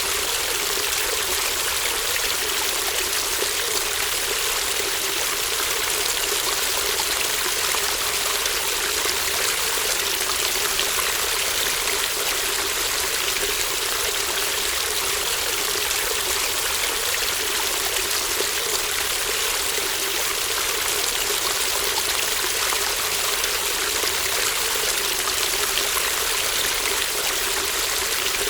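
A shallow babbling brook flowing steadily, with an even, continuous rush and trickle of water.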